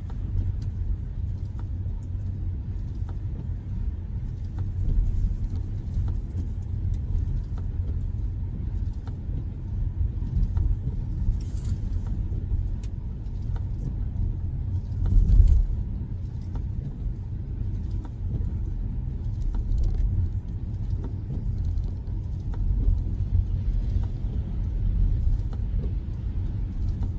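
Cabin road noise of a Tesla Model Y electric SUV driving: a steady low rumble of tyres on the road, swelling briefly louder about fifteen seconds in.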